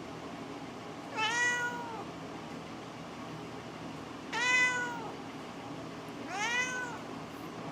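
A domestic cat meowing three times, a few seconds apart, each meow rising and then falling in pitch.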